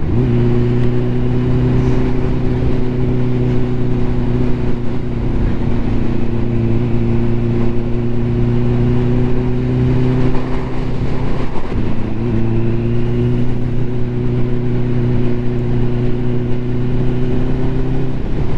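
Ducati motorcycle engine running at a steady cruising speed with wind rushing past, its note holding even; about twelve seconds in it briefly dips and then picks back up.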